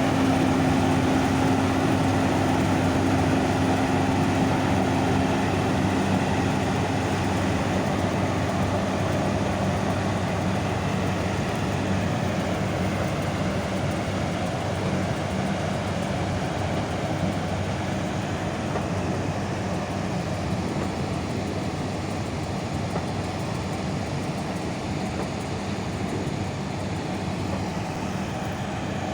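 Large diesel farm machine running steadily under load, a constant engine hum and mechanical noise that gets slightly quieter over the span.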